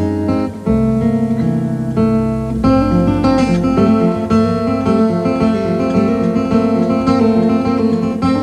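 Background music on acoustic guitar: plucked, strummed notes in a steady pattern, growing busier a few seconds in.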